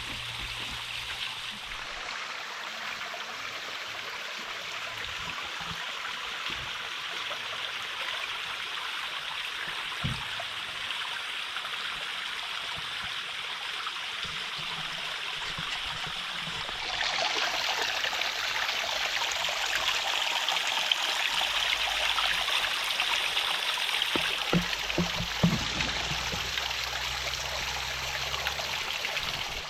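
Water of a stream and small waterfall running steadily, getting louder a little past halfway through.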